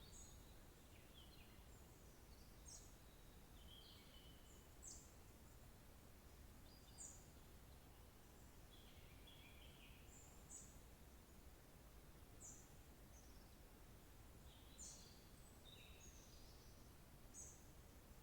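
Faint birdsong: short, high chirps every second or two, over a steady low background hiss.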